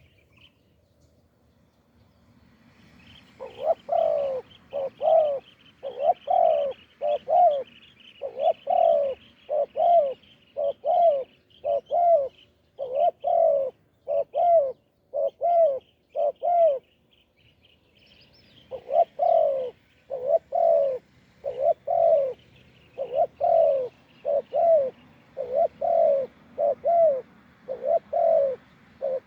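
Spotted dove cooing: a long series of short, repeated coo notes, stopping briefly for about a second and a half just past the middle before starting again. Fainter high chirps of other small birds run underneath.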